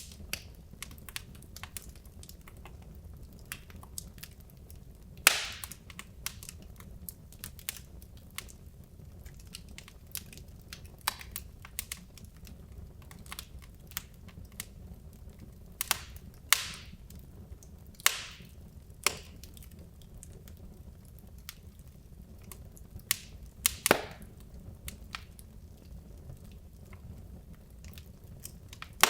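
Wood logs burning in a fireplace: a steady low rumble of the fire with scattered crackles and a few louder, sharp pops.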